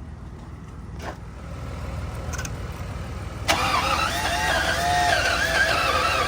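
1995 BMW 750iL V12 engine being cranked on the starter, firing and trying to run after sitting for years. The rapid low pulsing builds, and about three and a half seconds in it turns suddenly louder with a wavering whine on top.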